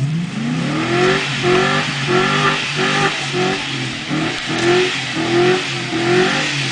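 Pickup truck engine revving hard over and over, its pitch climbing and dropping about twice a second, with a steady hiss of tyres spinning in mud.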